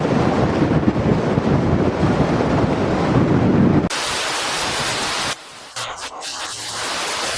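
Storm noise of wind and rain: a deep steady roar, cut abruptly about four seconds in to a bright hiss, then to quieter noise with a few scattered knocks.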